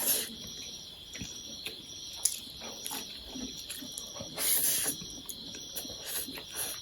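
Close-miked eating of chow mein noodles: small wet chewing clicks, with two short slurps, one right at the start and one about four and a half seconds in, over a faint steady hiss.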